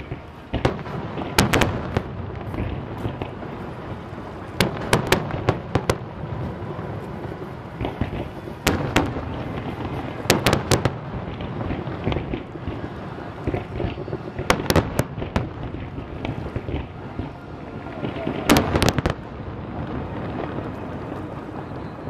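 Fireworks display: aerial shells bursting in groups of sharp bangs every few seconds, over a continuous low rumble. The last group of bangs comes about three seconds before the end.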